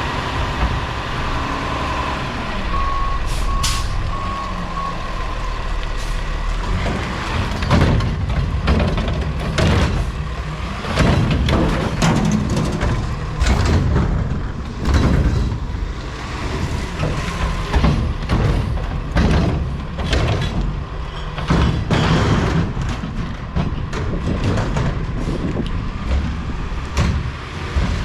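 Peterbilt 520 recycling truck with a Curotto-Can arm at work: a short run of backup beeps about three seconds in, then its diesel engine running under many irregular bangs and clatters.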